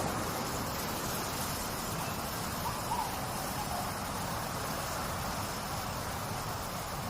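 Steady rushing of trickling water, with a faint short call about three seconds in.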